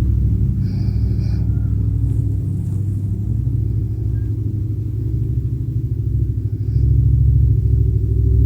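A steady low droning rumble made of deep pitched tones from the animation's background soundtrack, with a short high chime about a second in. It gets louder near the end.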